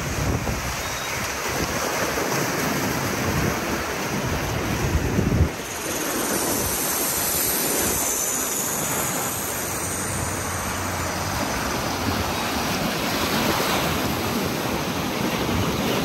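Rushing water of a white-water river rapids raft ride, with wind buffeting the phone microphone. A brief loud thump about five seconds in, then a stretch of stronger hissing spray.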